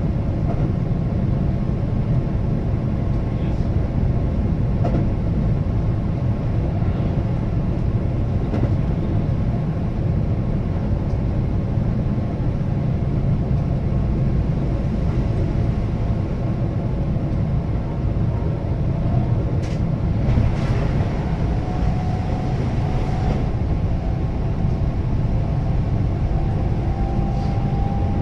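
Keihan electric train running at speed between stations, heard from inside the car: a steady low rumble of wheels on rail, with a faint high tone coming in near the end.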